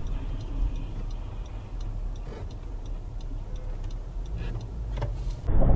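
Low vehicle rumble with faint, regular ticking over it, then an abrupt cut to a louder, rumbling recording near the end.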